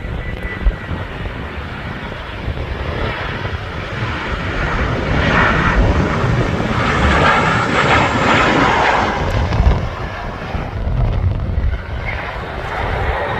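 Jet airliner passing overhead, its engine noise swelling to a peak and then easing off, with steady wind rumble on the microphone.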